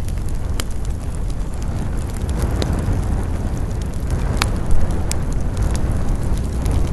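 Wood campfire burning: scattered crackles and sharp pops over a steady low rumble, with one louder pop a little after the middle.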